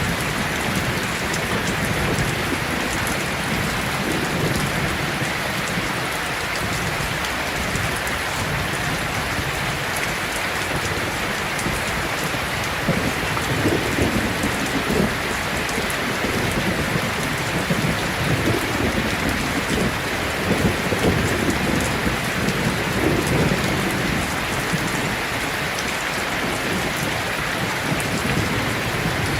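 Heavy rain falling steadily in a dense hiss, with low rolling thunder rumbling through the middle stretch.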